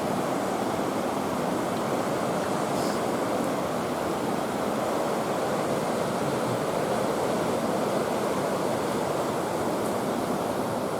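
Steady rush of water flowing over rocks in a stream or small cascade.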